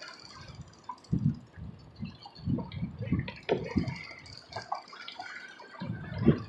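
Water splashing and sloshing against a small sailboat's hull in irregular surges, with a few sharper slaps.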